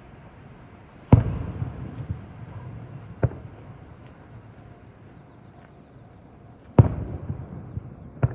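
Fireworks shells bursting close by: two loud booms, about a second in and near the end, each trailing off in a rumble, with two lighter, sharper bangs in between and right at the end.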